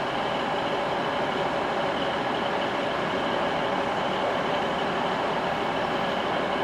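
Locomotive-hauled passenger train departing, its coaches rolling out with a steady rumble of wheels on rail.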